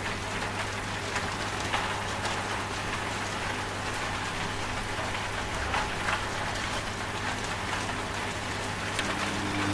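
Steady rain falling, with scattered individual drop ticks, over a low steady hum from a washing machine running.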